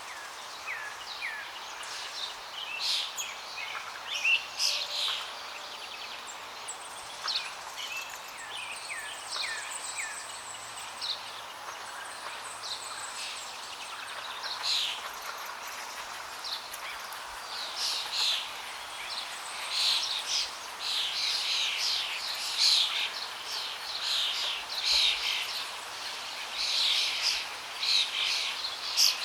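Several birds chirping and singing in quick, overlapping calls, busiest in the second half, over a steady rush of flowing water.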